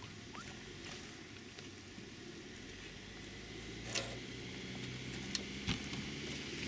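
BK117 helicopter's engines starting up: a low, steady hum that grows louder, with a few sharp clicks, the loudest about four seconds in.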